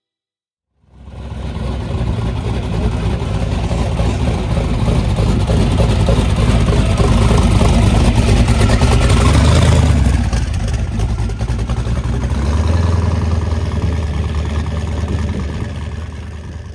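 A 6-71-supercharged, twin-turbocharged small-block Chevy V8 in a street rod running loud, coming in about a second in. It swells to its loudest about ten seconds in, drops, swells again, then fades as the car drives away near the end.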